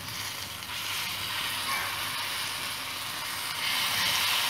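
Masala-coated colocasia pieces sizzling as they are dropped into hot oil on a tawa, shallow-frying. The steady hiss grows louder about three and a half seconds in as more pieces go into the oil.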